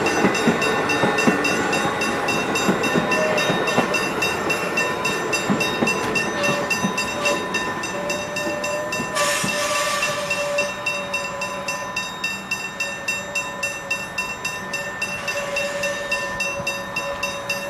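Level-crossing warning bells, Westinghouse hybrid bells, ringing in a fast, even rhythm while a suburban electric train runs past over the rails; the train noise slowly fades.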